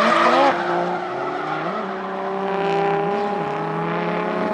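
Drift car's engine held at high revs, its note steady with the revs rising and dipping briefly a couple of times.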